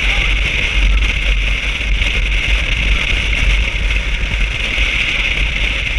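Steady vehicle running noise with a heavy low rumble, mixed with wind on the microphone.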